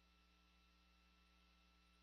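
Near silence: only a faint steady electrical hum on the audio feed.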